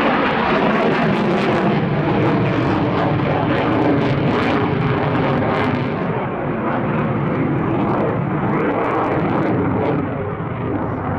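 McDonnell Douglas F/A-18 Hornet jet fighter's twin F404 turbofans heard as loud, continuous jet noise with a ragged crackle during a display pass. The sound eases slightly about six seconds in and again near the end.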